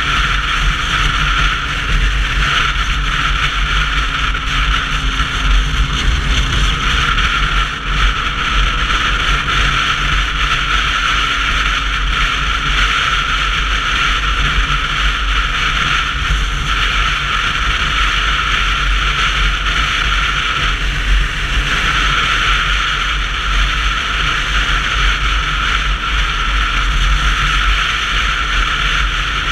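Wind and road noise on a camera riding along on a Sinnis Terrain 125cc motorcycle: a loud, steady rumble of wind buffeting under a constant hiss, easing briefly a couple of times.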